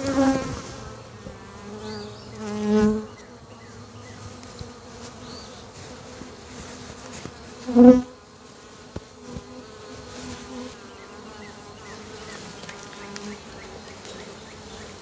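Honey bees buzzing in a steady hum around an open hive. The buzz swells louder briefly three times, most of all about eight seconds in.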